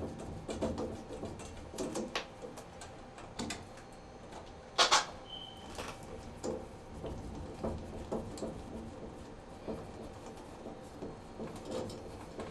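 Scattered light clicks and taps of metal and plastic parts being handled, with one louder sharp knock about five seconds in.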